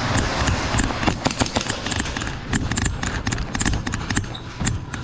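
A busy, irregular run of sharp clicks and knocks over low thumps, several a second.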